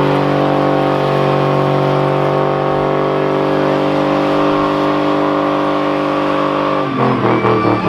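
Car engine held at steady high revs during a burnout, with the rough hiss of spinning tyres. Near the end the revs drop and stutter unevenly as the throttle is worked.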